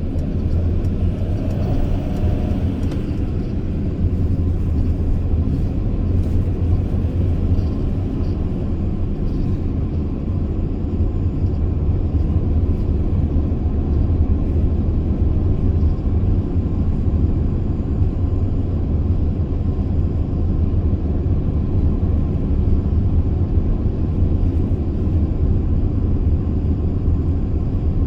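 Mercedes Sprinter V6 van on the move: a steady, loud low rumble of engine and road noise with no change in pace.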